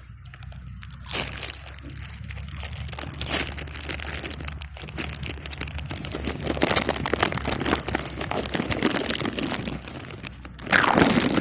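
A foil Lay's potato chip bag being handled, crinkling and crackling unevenly with a loud surge near the end.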